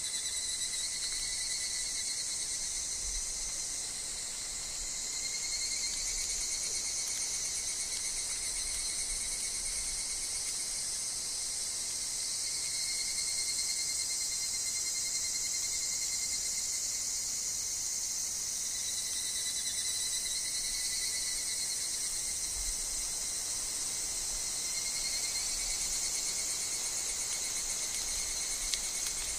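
A steady, dense chorus of insects with higurashi (evening cicadas) calling in overlapping phrases that swell and fade every few seconds. A faint low rumble of wind comes and goes underneath.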